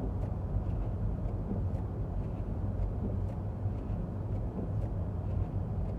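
Steady low rumble of engine and tyre noise heard from inside a car driving on a snow-covered road.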